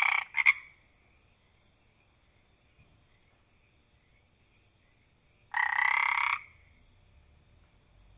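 Frog croaking: a call of about a second as it starts, a short note just after it, and a second croak about five and a half seconds in.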